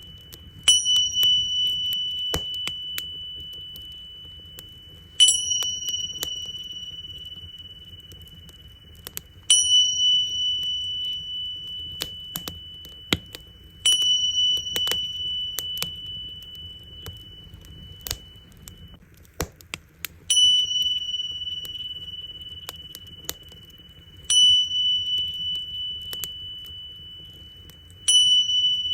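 Tingsha cymbals struck together seven times, about every four seconds, each strike ringing out in a high, clear tone that slowly fades. Underneath, a wood fire crackles with scattered pops.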